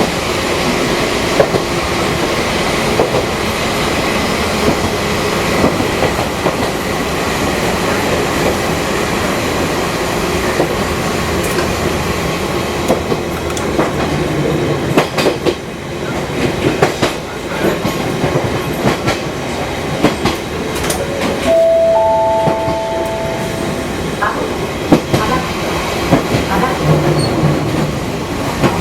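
Fukui Railway 200-series electric train running, its wheels clattering over rail joints with a steady running rumble and a cluster of sharp clicks about halfway through. About two-thirds of the way in, a brief two-note tone sounds for about two seconds.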